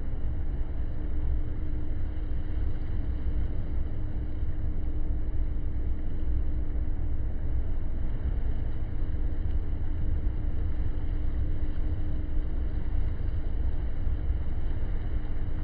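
Steady low rumble of a boat's engine running underway, with a constant hum above it.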